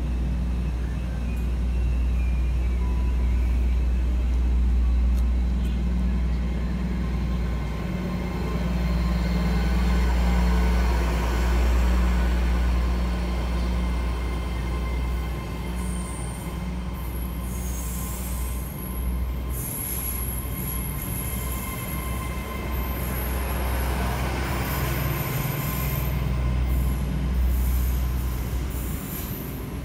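GWR Hitachi Class 800 train, two units coupled, moving along the platform: a steady low rumble of wheels and running gear, with thin high tones over it.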